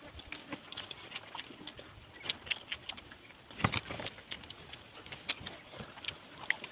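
Close-up eating sounds of people chewing grilled turtle meat by hand: a scatter of short smacks and clicks from chewing and lips.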